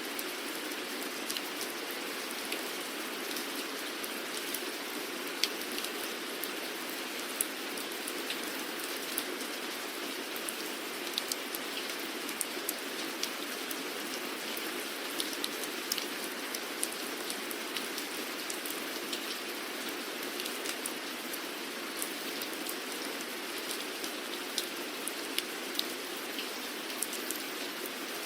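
Steady rain falling, an even hiss with many sharp individual drop ticks scattered through it.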